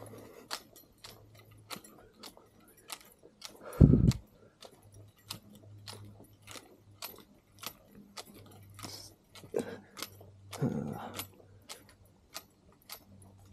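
A person walking, with light irregular clicks and jangling from carried gear and footfalls, and one heavy low thump about four seconds in.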